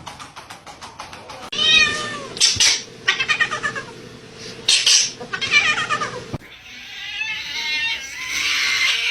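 A cat meowing several times, long drawn-out meows that bend in pitch, with a couple of short sharp noisy bursts between them.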